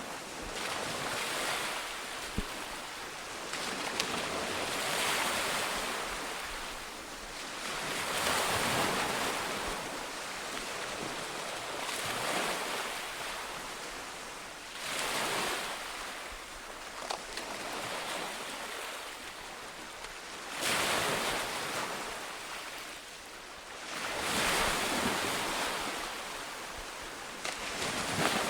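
Sea waves breaking on a shore, a wash of surf that swells and fades about every three to four seconds.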